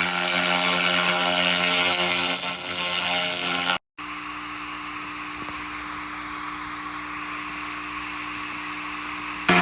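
A 2000 W handheld laser rust remover running: a steady hum with a hiss over it. It breaks off suddenly for a moment a little before four seconds in, then carries on a bit quieter with a steadier hum.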